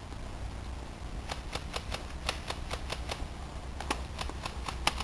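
Airsoft guns firing: from about a second in, an irregular string of sharp snapping shots, several a second.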